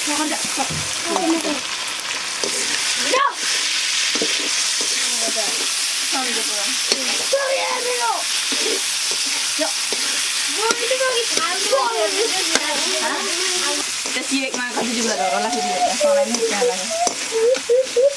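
Chicken pieces sizzling as they fry in a wok over a wood fire, with a metal ladle stirring and scraping around the pan throughout.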